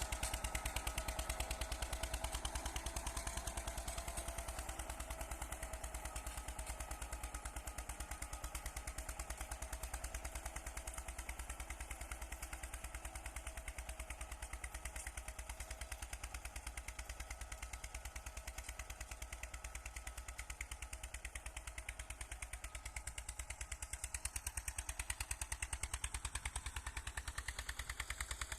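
Eicher 242 tractor's single-cylinder diesel engine running steadily while tilling a field, a rapid, even exhaust beat.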